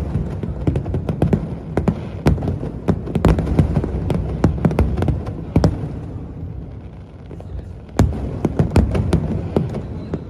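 Fireworks going off in quick, irregular succession: sharp cracks over a low rumble of booms. They thin out about two-thirds of the way through, then start again with a loud bang.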